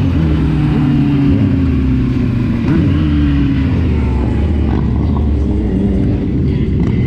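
Motor vehicle engine running steadily while driving, with a couple of brief small rises in pitch and road noise underneath.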